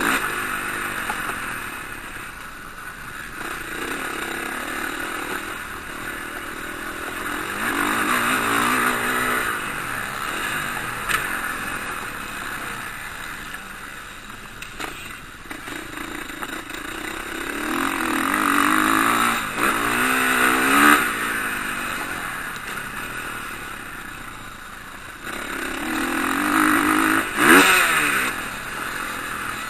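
Motocross bikes racing past, their engines revving up and down in pitch through gear changes and jumps. The sound swells three times as groups of bikes come close and fades between.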